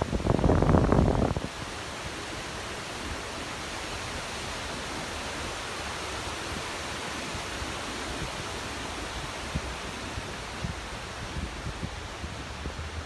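Steady rushing noise, with a brief louder rumble in the first second and a half.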